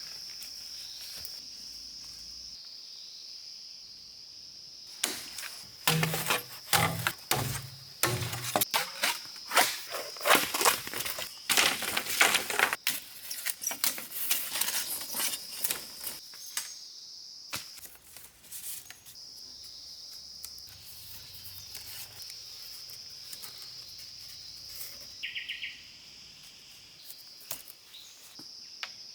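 A steady high-pitched insect drone from crickets or similar insects, with a long stretch of loud, irregular cracks and rustles starting about five seconds in and stopping near the middle, and a brief rapid chirp near the end.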